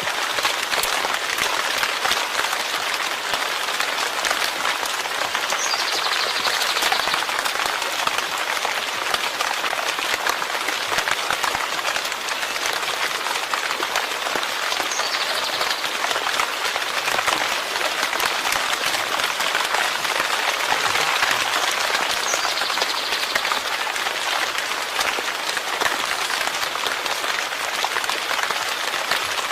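Steady, heavy rain: a dense, even patter of countless drops that never lets up.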